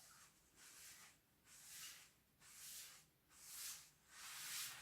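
Paper being rubbed over sooty fireplace glass to wipe off the layer of soot: faint scrubbing strokes, about one a second, growing a little louder toward the end.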